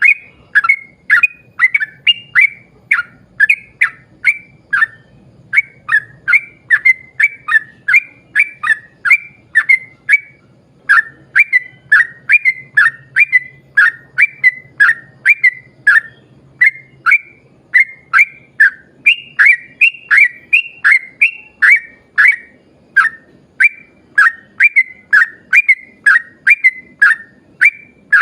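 Yellow-vented bulbul (trucuk) singing a long unbroken run of short, clear whistled notes, each dropping in pitch, at about two to three notes a second.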